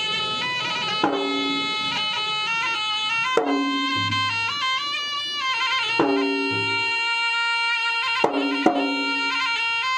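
Traditional Makassarese wedding gendang music: a double-reed pipe (pui-pui) plays a continuous, stepping melody over ganrang drums, which give a handful of sharp strokes and a couple of deeper booms.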